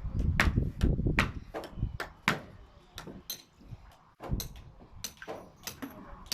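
Hammers striking nails into timber formwork: sharp, irregular knocks, about two or three a second, with a low rumble in the first second or so.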